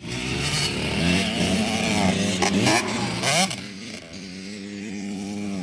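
Dirt bike engine running and revving, the revs climbing sharply a couple of times around the middle before settling to a steadier run.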